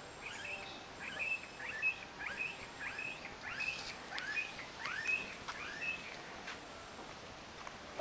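A bird calling: a short chirping note, sliding up and then held briefly, repeated two or three times a second, stopping about six seconds in.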